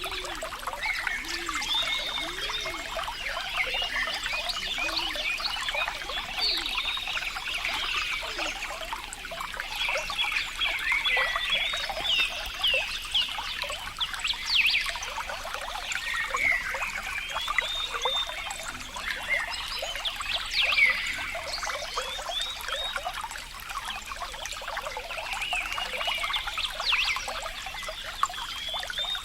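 Water trickling and splashing in a continuous patter, with many short chirping calls from animals layered over it throughout.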